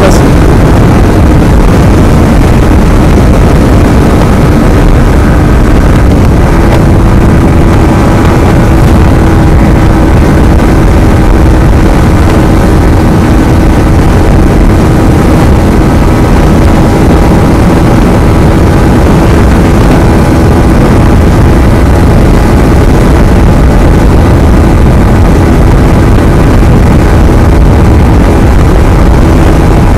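Yamaha MT-15's 155 cc single-cylinder engine running steadily at highway cruising speed, heard from the rider's seat under heavy wind rush on the microphone. The engine note rises slightly about six seconds in.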